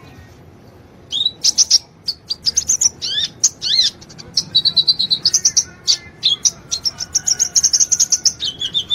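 Sunbird singing in rapid, high, thin chirps and fast trills, with a few sharply sweeping notes, after a brief pause at the start.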